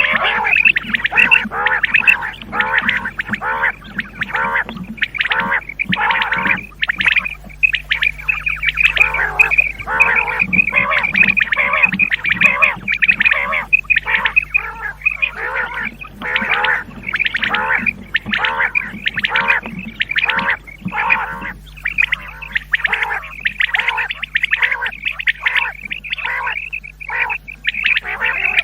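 Common quail calling over and over in quick, overlapping bursts, several calls a second without a break: a recorded quail-call lure.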